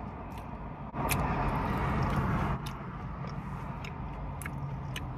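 Chewing and biting on a chicken tender, with scattered small mouth clicks, over a steady hum of traffic coming in through an open car window. A louder rush of noise starts suddenly about a second in and stops just as suddenly about a second and a half later.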